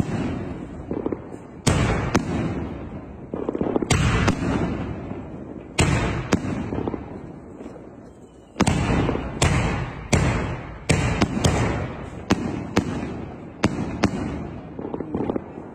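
3-inch gold titanium willow fireworks cake firing its shells: sharp bangs at uneven intervals, roughly one a second, each trailing off in a rumbling decay.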